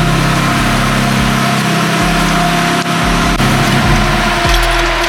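Mazda FC RX-7's naturally aspirated 13B two-rotor rotary engine running steadily at idle, a few sharp ticks near the end. The owner believes its coolant seals have failed, after it blew white smoke until warm.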